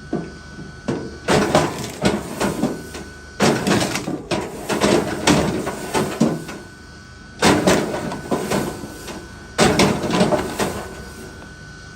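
Four bouts of rapid knocking and scraping from wood being worked by hand, with short pauses between them.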